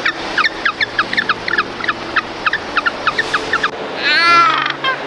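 Rapid high peeping of chicks, short falling chirps about four or five a second, over soft background music. Near the end a louder, wavering animal call takes over.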